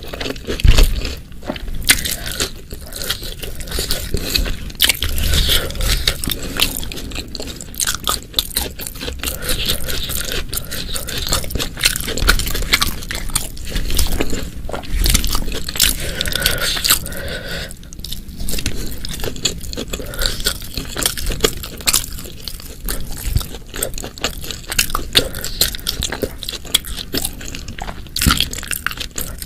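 Close-miked eating sounds: continuous chewing and biting of food, with dense, irregular wet mouth clicks and no pause.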